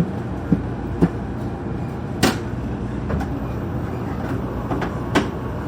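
Steady low rumble of a 700-series RailStar Shinkansen running, heard from inside the passenger car, with a few short sharp knocks: the loudest about two seconds in and another near the end.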